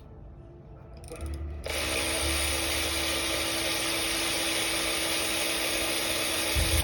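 A power tool running steadily for about five seconds, starting abruptly a little under two seconds in with an even whir and hiss over a steady tone, then cutting off.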